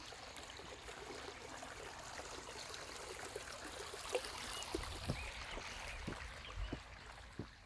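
Water trickling steadily, with a few soft footsteps about halfway through and faint bird chirps.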